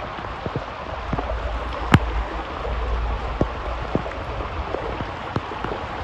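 Heavy rain falling steadily, with many separate drop hits and one sharper hit about two seconds in.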